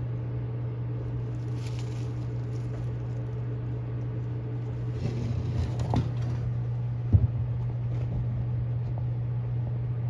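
A steady low mechanical hum, with brief patches of faint crackling and two sharp clicks about six and seven seconds in.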